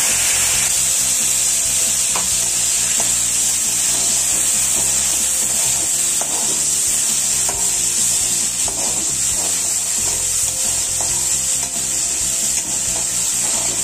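Tomato puree sizzling in hot oil with whole spices in a kadai, a steady frying hiss, while a perforated metal spoon stirs it, scraping and ticking against the pan.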